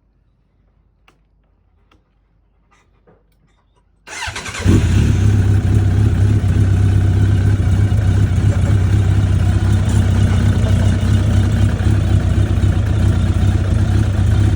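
A few faint clicks, then a 2003 Suzuki GS1200SS's air/oil-cooled inline-four cranks briefly about four seconds in and catches on a cold start. It settles into a steady, loud idle.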